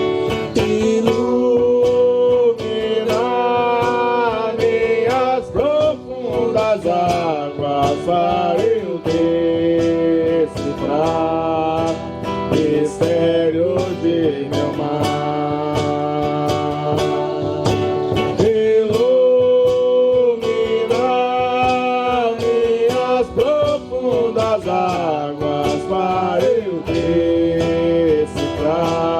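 Music: a voice singing long held notes that slide between pitches, over steadily strummed acoustic guitar.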